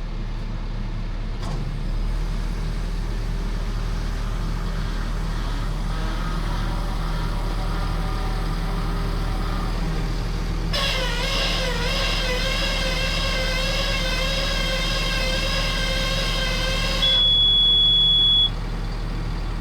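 Steady low engine and road hum of a vehicle being driven, heard from inside the cab. About eleven seconds in, a loud sustained pitched tone with a slightly wavering pitch sounds for about six seconds. It is followed by a single high beep lasting a second or so.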